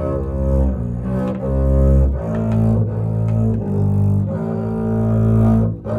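Double bass bowed, playing a slow melodic line of held low notes that change pitch every half second to a second.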